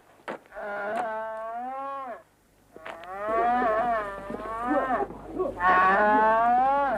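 A cow mooing twice: a call of about a second and a half, then a longer, wavering one. The cow has a horn grown round into her head and is being held so it can be trimmed.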